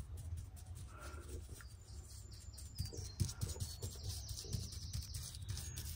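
Faint high bird chirps, short at first and then a longer run about four seconds in, over a low steady hum, with soft knocks of a brush being worked against the concrete frog statue's base.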